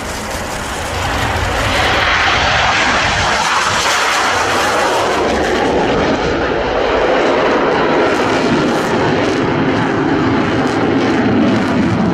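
Fighter jet making a low flyover: loud rushing jet noise that swells about a second in, then slides lower in pitch as the jet passes and moves away.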